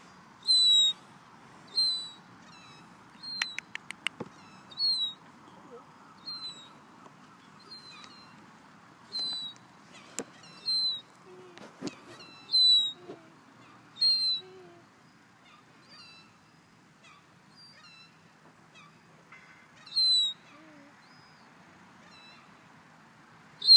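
Seagull giving a series of short, high, down-slurred mewing calls, about one every second, some loud and some faint, with a few sharp clicks in between.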